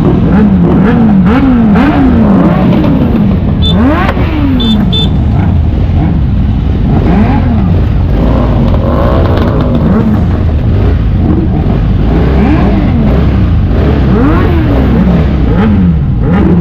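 Motorcycle engines revving, the pitch rising and dropping again and again as the throttle opens and gears change, over a heavy low wind rumble. A few short clicks come about four and five seconds in.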